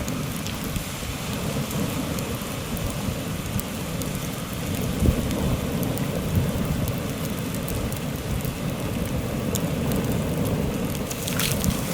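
Heavy wind blowing, buffeting the microphone with a steady low rumble, over a campfire crackling with scattered sharp pops.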